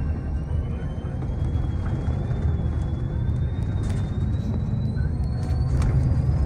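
Road vehicle running: a steady low rumble with a thin whine that climbs slowly in pitch throughout, and a few faint clicks near the end.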